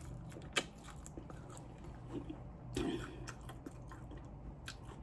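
Close-miked biting and chewing of crispy fried chicken wings, with sharp crunches: one about half a second in and a louder bite near three seconds. A steady low hum runs underneath.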